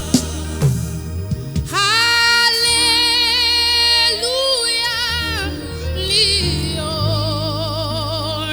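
Gospel worship music: a singer holding long notes with wide vibrato over a steady bass accompaniment.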